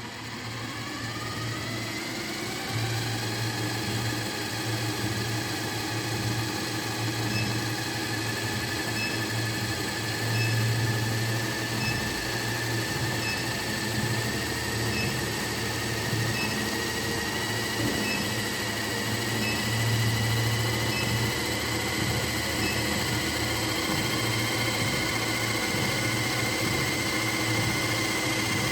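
Electric motor whine from a treadmill running with a toy RC car on its belt, rising quickly in pitch over the first couple of seconds as it speeds up, then creeping slowly higher. A steady low hum runs under it, and a faint tick repeats about once a second.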